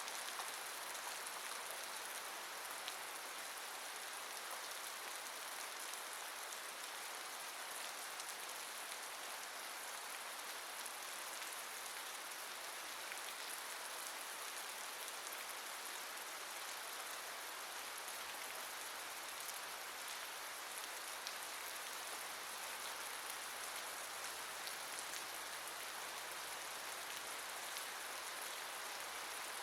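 Steady rain falling, an even hiss with scattered droplet ticks. A faint low hum comes in about halfway through.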